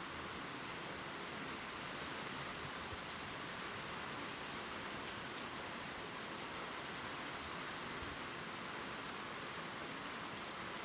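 Steady gentle rain falling on leaves, an even hiss with a few faint drip ticks.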